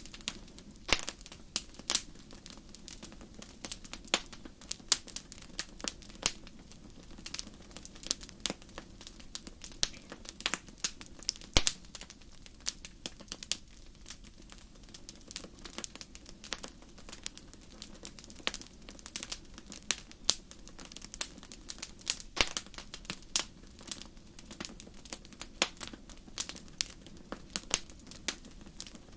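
Wood fire in a fireplace crackling: irregular sharp pops and snaps, a few of them loud, over a steady low hiss and rumble of the burning.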